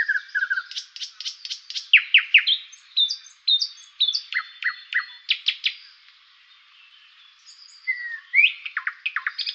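Birds chirping: a rapid series of short, sharp chirps that sweep down in pitch, easing off about six seconds in before picking up again near the end.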